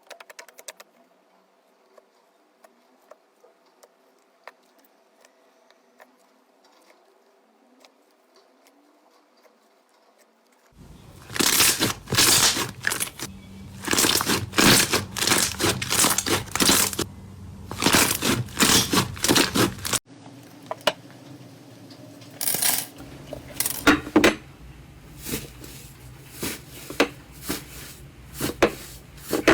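Slime being squeezed and poked by hand: faint scattered clicks at first, then, after about ten seconds, loud dense crackling and popping that runs on in quick runs.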